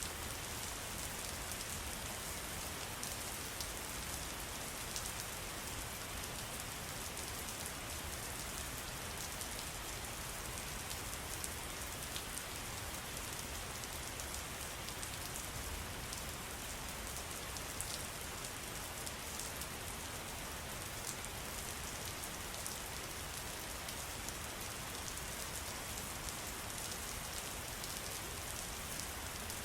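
Steady pattering of falling water: an even hiss with many small drop ticks, unchanging throughout.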